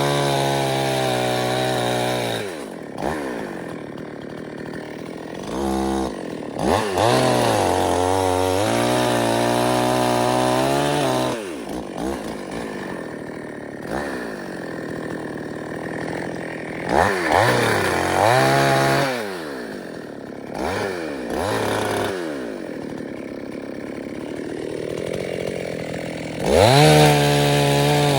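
Chainsaw engine revved up to full speed and let back down several times, its pitch rising and falling with each burst of throttle.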